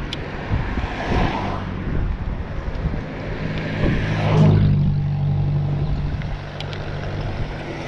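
Road traffic: cars passing one after another, with a vehicle engine humming steadily nearby, loudest about halfway through.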